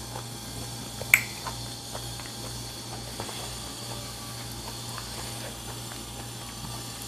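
A person chewing orange segments close to a clip-on microphone: small mouth clicks over a steady low hum, with one sharp click about a second in.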